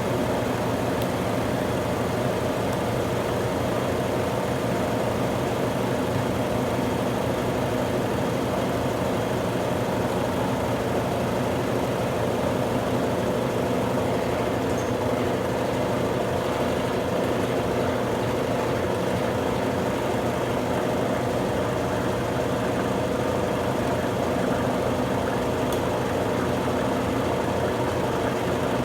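Consul Super Cargo 8 kg top-load washing machine spinning a load of towels, a steady mechanical hum that holds one pitch throughout.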